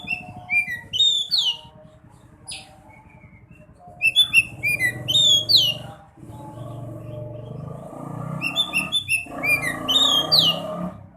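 Sekoci bird singing: three song phrases a few seconds apart, each a quick run of high chirps and short whistled notes, over a low background rumble.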